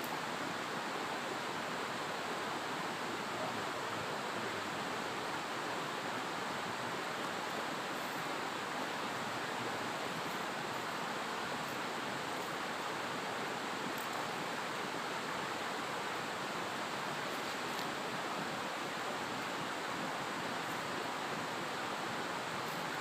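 Steady rushing of flowing water, an even hiss that keeps the same level throughout.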